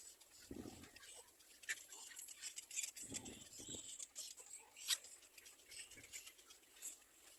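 Faint scratchy chirping and rustling of nestlings in a nest, made of many short high clicks, with a sharper click near the five-second mark. Soft low thumps come about half a second in and again around three seconds.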